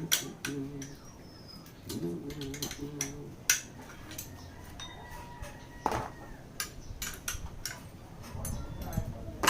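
Metal tools and engine parts clinking and knocking in a series of sharp, irregular clicks while a small motorcycle engine is being taken apart.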